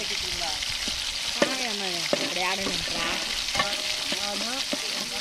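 Onions, chillies and ginger-garlic paste sizzling steadily in hot oil in a large aluminium pot over a wood fire. A perforated ladle stirs and knocks against the pot a few times with short sharp clicks.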